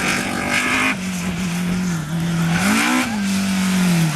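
Rally car engine under load on a hill-climb stage, its revs dropping at a gear change about a second in, then a quick rise and fall in revs near three seconds.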